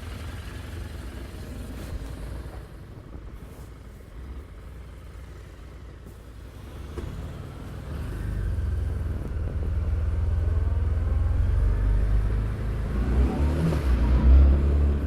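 Harley-Davidson Street 750 V-twin engine running low and steady, then getting louder from about eight seconds in, with a rising rev near the end.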